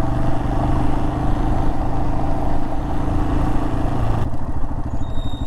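Royal Enfield Himalayan 411 single-cylinder engine running steadily under way. About four seconds in the wind noise falls away and the engine drops to a slower, pulsing note as the bike slows. Near the end there is a brief high squeal from the squeaky brakes.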